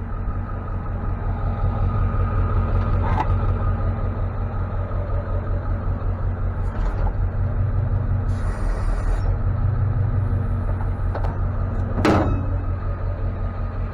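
Tow truck driving: a steady, loud low engine and road rumble with a few light rattles, a short hiss, and a sharp click about twelve seconds in.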